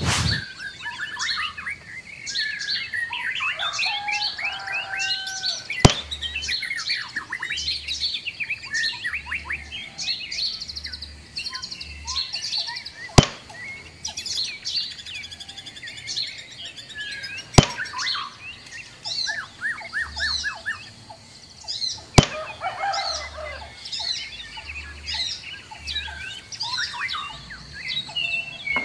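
Small birds chirping and singing in many quick, rising and falling calls, with four sharp clicks a few seconds apart.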